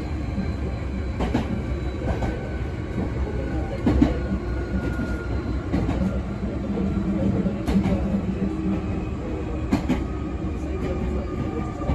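Hankyu 8300 series electric train car running, heard from inside the car: a steady low rumble of wheels on rail, with sharp clicks over rail joints every second or two and thin faint tones above. This car carries a trial Toyo Denki hybrid SiC VVVF inverter with random modulation, driving enclosed six-pole induction motors.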